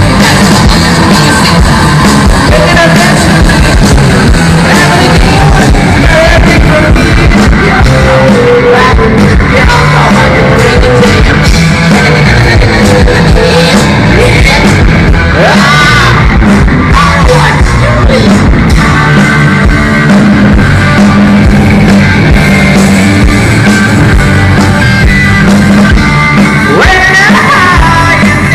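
Live rock band playing loud, with distorted electric guitars, bass and drums, and a singer shouting and singing over it.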